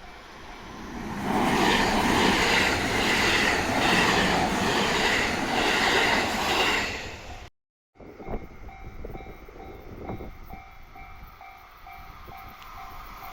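A train passes over a railway level crossing while the crossing's warning bell rings steadily. The train noise swells about a second in, holds for several seconds and cuts off suddenly. After that the bell rings on over quieter background, and louder rail noise builds again near the end.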